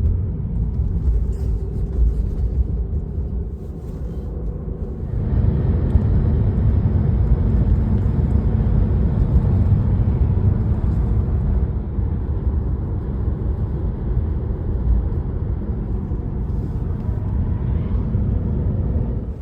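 Steady low road-and-engine rumble heard from inside a moving car. It gets louder about five seconds in.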